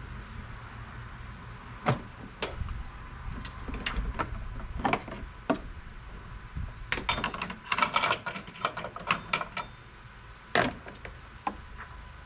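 Scattered sharp clicks and knocks of hard objects being handled, with a busy patch of clatter about seven seconds in, over a steady low hum.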